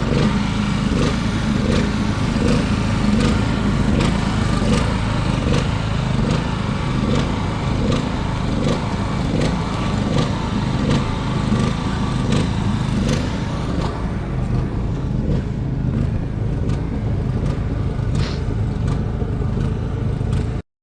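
A machine running steadily, with a regular clicking a little under twice a second over its drone; the sound cuts off abruptly near the end.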